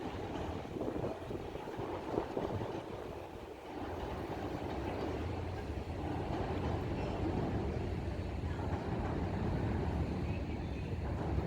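A low, steady engine rumble over a wash of outdoor noise, growing steadier about four seconds in.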